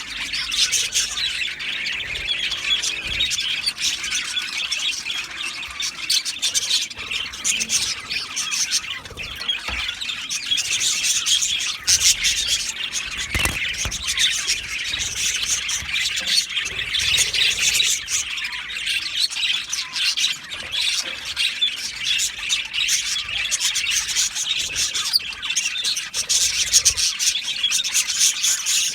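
A flock of budgerigars chattering, warbling and squawking all at once, with many calls overlapping.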